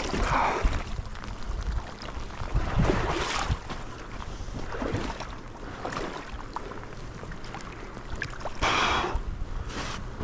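Wind rumbling on the microphone over sloshing river water, with a couple of louder swishing splashes, about three seconds in and near the end, as someone wades through the current.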